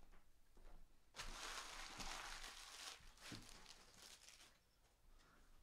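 Crinkling and tearing of a trading card pack wrapper being ripped open and handled, lasting about three seconds, with a few small clicks.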